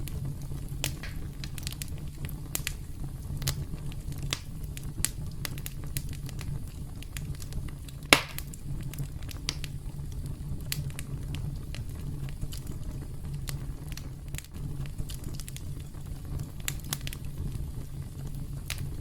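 Campfire crackling: a steady low rumble of burning wood with irregular sharp pops and snaps, one louder pop about eight seconds in.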